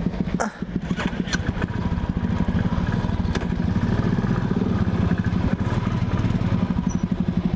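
Royal Enfield single-cylinder motorcycle engine running at low revs, close up, with a rapid, even thump as the bike is ridden off slowly.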